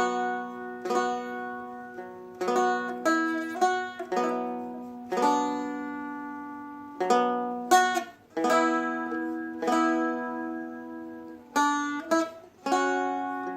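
Seagull Merlin M4, a small four-string dulcimer-style strumstick, picked and strummed through a slow melodic phrase. Notes ring over held drone strings and fade between strokes.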